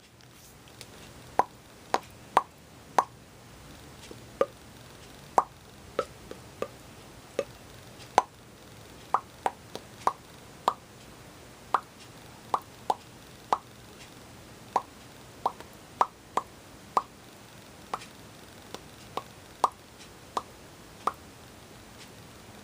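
Lips popping over and over, about thirty-five short, hollow pops spaced irregularly a fraction of a second to a second or two apart: a repetitive self-stimulatory stim.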